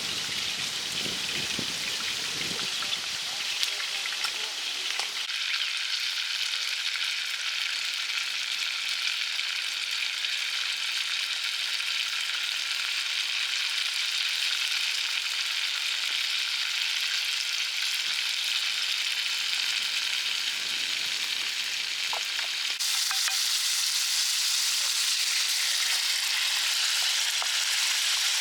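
Food frying in hot oil in a pan, a steady sizzle that grows louder about three quarters of the way through.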